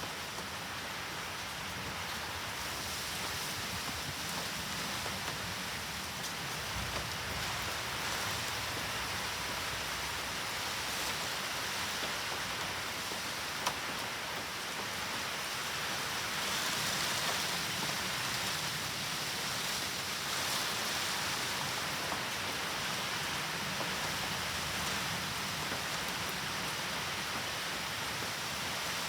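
Steady heavy rain from a typhoon, a continuous hiss of rain falling and hitting surfaces. It grows a little heavier about two-thirds of the way in, and there is a single sharp tick about halfway through.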